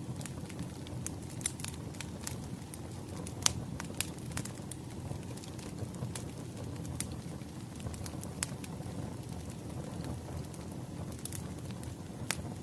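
Wood fire crackling, with irregular sharp pops over a steady low rumble. The loudest pops come about three and a half seconds in and near the end.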